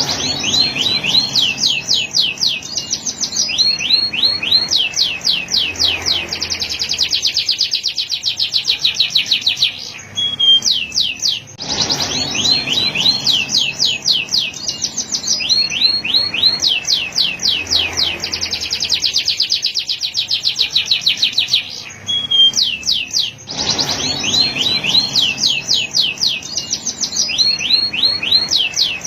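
Male domestic canary singing: fast rolls and trills of rapidly repeated high notes in long phrases, with brief pauses about ten and twenty-two seconds in.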